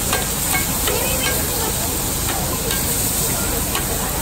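Fried oysters and egg sizzling steadily on a wide black pan, with a metal ladle stirring and scraping against the pan in several short knocks.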